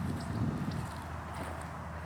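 Footsteps of a person walking on a path outdoors, irregular low thuds over a steady low rumble, with a few faint short high chirps.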